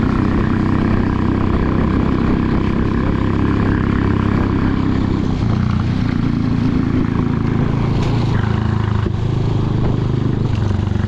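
Motorcycle engine running steadily while riding along, with no big revs or changes in pitch.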